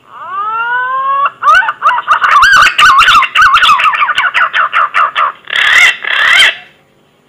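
Green pigeon (punai) song used as a hunting lure call. A whistle rises and swells for about a second, then breaks into a fast run of wavering, warbling whistled notes, and ends with two louder, longer notes near the end.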